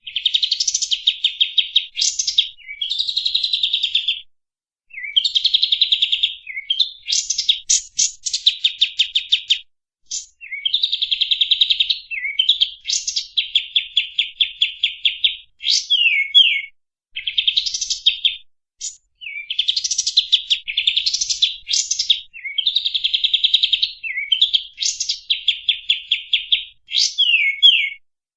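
A songbird singing a run of fast, rapidly repeated phrases, each a burst of quick notes lasting about one to two seconds, separated by short pauses.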